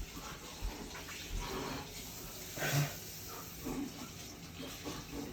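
Faint, scattered mouth and breathing noises, with a louder wet spit about three seconds in: a person spitting out a chewed hot wing that he could not swallow.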